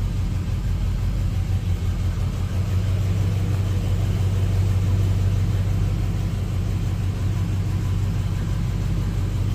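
Car engine idling steadily, a low even hum with no change in speed.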